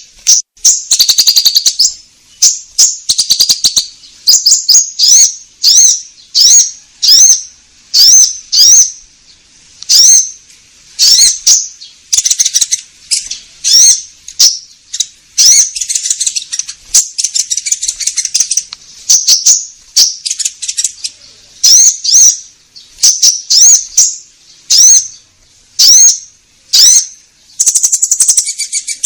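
Konin songbird song, played as a lure recording: a long run of sharp, rising chirps, about two a second, broken now and then by short rattling trills.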